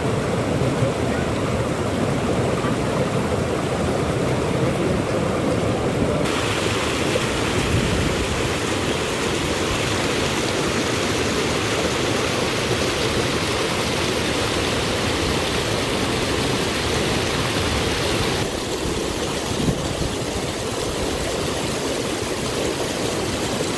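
A steady rushing noise like running water from a stream. Its tone shifts abruptly about six seconds in and again near eighteen seconds.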